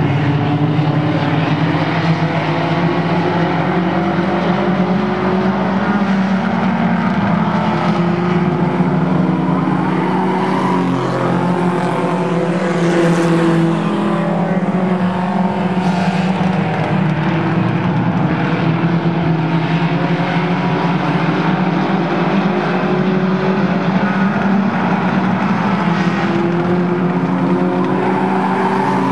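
Several race car engines running hard together in a heat race. It is a loud, steady, overlapping drone, with pitches that rise and fall as the cars accelerate and lift.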